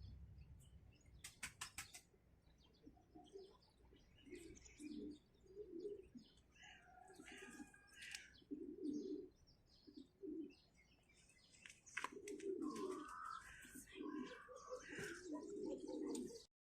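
Doves cooing over and over, low and soft, with small birds chirping higher up and a quick run of clicks about a second in. It is faint and cuts off suddenly just before the end.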